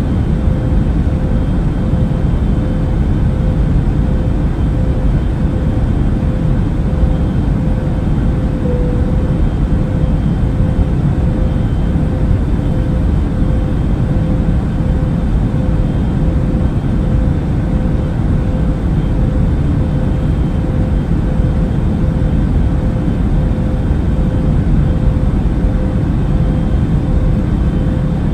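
Airplane cabin noise in flight: a steady, unchanging rumble, heaviest in the low end, with a faint constant tone running through it.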